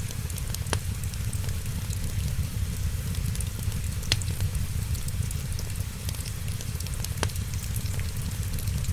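Wood fire crackling: a steady low rumble of flames under many small snaps, with three louder pops about a second, four seconds and seven seconds in.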